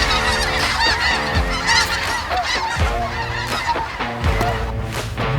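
A large flock of snow geese calling, a dense overlapping chorus of short, high honks. Underneath, low sustained notes with a thump about every second and a half come in about a second in.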